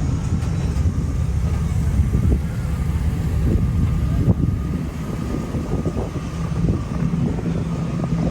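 Pickup truck engine running steadily at low revs, a deep even rumble.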